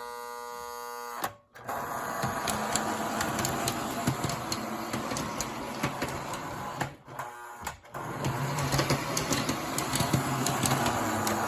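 Model Reading U36B diesel locomotive running on toy train track: its electric motor and gearing rattle steadily, with many small clicks from the wheels on the rails. It opens with a steady buzz of about a second, and the running dips briefly about seven seconds in before picking up again.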